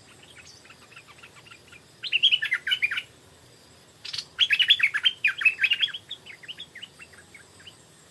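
Stripe-throated bulbul song: quick, chattering phrases of rapid notes. A faint run comes first, then a loud phrase about two seconds in, and a longer, louder phrase from about four seconds in that trails off near the end.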